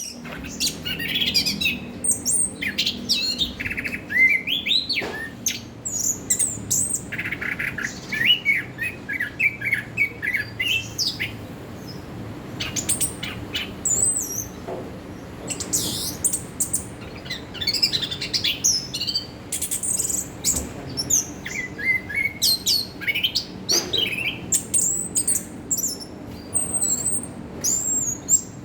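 Chestnut-capped thrush (anis kembang) singing a long run of quick, varied, high whistled and chirping phrases with short pauses between them, over a faint steady low hum.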